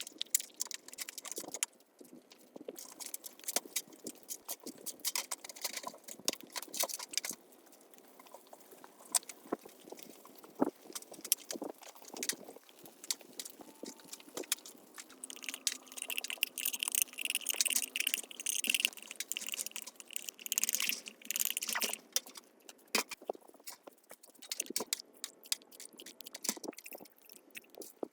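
Hand work on metal parts: irregular clicks, knocks and scrapes, with several seconds of steady, high scraping past the middle.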